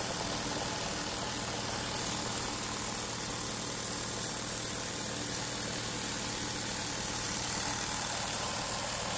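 Jensen 20-S model steam engine running steadily under steam, driving a small generator whose whirring makes most of the noise; the engine itself runs quiet and smooth.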